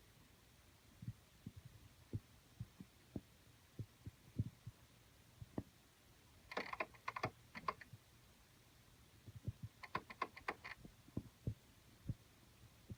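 Faint, irregular soft knocks from inside a bedroom closet wall, with two short runs of quick scratching clicks, about halfway through and again near the three-quarter mark. The owner wonders whether a bathroom fan timer in the wall is causing it.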